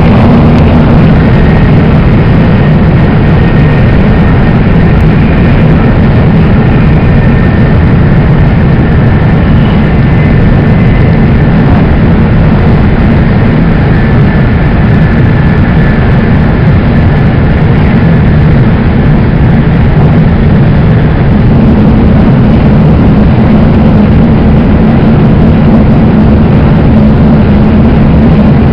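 Shinkansen bullet train running at speed, heard from inside the passenger cabin: a loud, steady rumble of wheels and air, with faint high tones drifting in and out.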